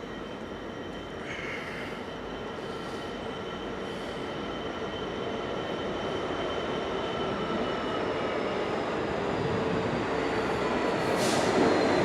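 GB Railfreight Class 66 diesel freight train running in and braking, with a high brake squeal of several tones sliding slowly down in pitch over the rumble of wheels on rail. It grows steadily louder as it draws alongside.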